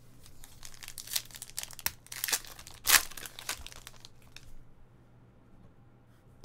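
Trading-card pack wrapper crinkling and tearing open in the hands: a run of crackles with one louder rip about three seconds in, stopping about four and a half seconds in.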